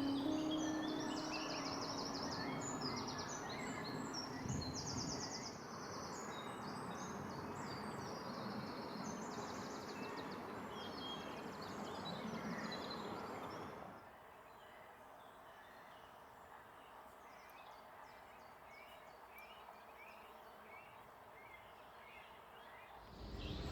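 Several songbirds singing and calling over a steady background hiss. The hiss drops away suddenly about two-thirds through, leaving fainter bird calls.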